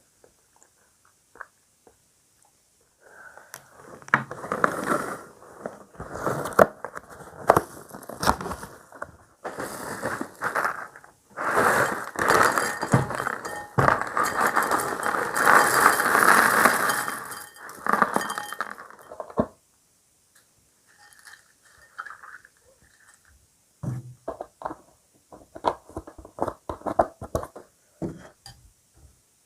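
Eating cereal from a bowl with a spoon, heard close up: the spoon clinks and scrapes against the bowl, with long stretches of crunchy chewing.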